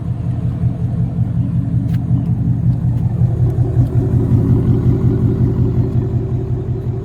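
2016 Ford Mustang GT's 5.0 V8 idling with a low, steady rumble through its straight-pipe exhaust with X-pipe and resonator delete.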